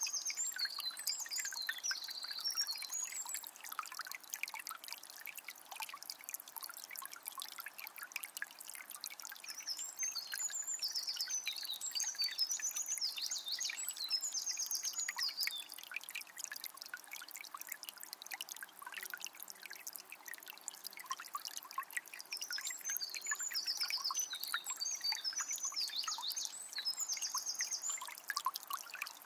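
A calm forest river trickling and babbling steadily. A songbird sings quick, high trilled phrases in three spells: at the start, around the middle and near the end.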